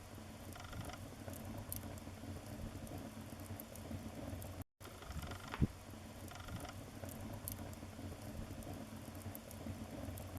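Wood fire in a fireplace burning steadily, with a low rumble of flames and frequent small crackles, and one sharper pop a little past halfway. The sound cuts out for a split second just before the middle.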